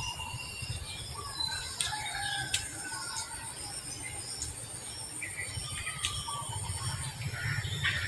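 Several birds calling over a steady high hiss, with a few sharp clicks about two, two and a half and six seconds in.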